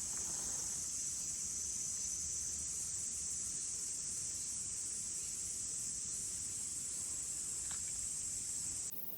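Steady high-pitched chorus of insects, which cuts off suddenly near the end.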